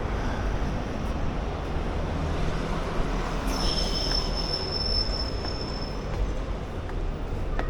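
A passenger train running with a steady low rumble. About halfway through, its wheels squeal high and steadily on the rails for two or three seconds.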